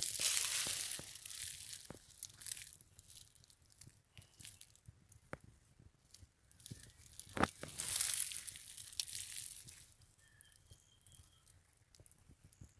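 Rustling, crackling noise in two swells, with scattered sharp clicks between them.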